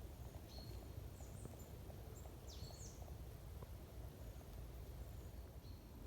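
Faint outdoor forest ambience with several short, high bird chirps, a few clustered in the first three seconds and one more near the end, over a steady low rumble.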